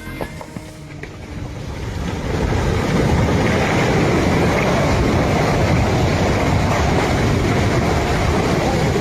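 Landslide rumbling as a mass of debris slides downhill: a rushing roar that swells over the first two or three seconds and then holds loud and steady.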